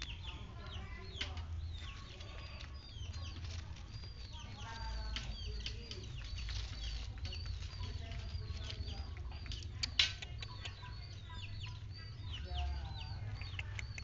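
Birds chirping: many short, high chirps repeating quickly and overlapping throughout. A few lower clucking calls come in now and then over a low rumble, and there is one sharp click about ten seconds in.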